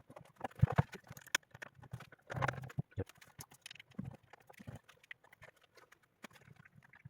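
Irregular clicks, taps and knocks of hands handling the parts and plastic casing of a Sonos Playbar, with a short clatter about two and a half seconds in.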